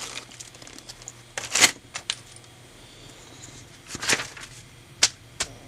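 Mechanical pencils clinking and rattling against each other as they are handled, a few separate clinks with two louder rattles.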